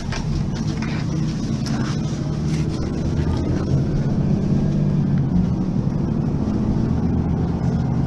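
Diesel engine of a Mercedes-Benz Citaro facelift city bus running steadily under way, louder from the start onward.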